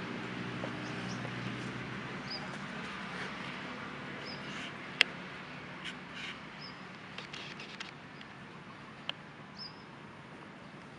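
Outdoor background hiss with a bird giving short, high chirps every second or two. A few sharp clicks are heard, the loudest about five seconds in.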